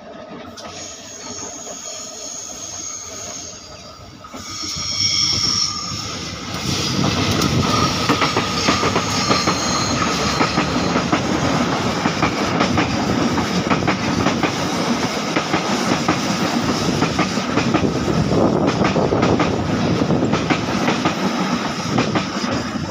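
Indonesian diesel-hauled local passenger train coming round a tight curve onto a bridge, with high squealing tones from the wheels on the curve in the first few seconds. From about six seconds in, the coaches roll past close by, with a loud, steady clickety-clack of wheels over the rails.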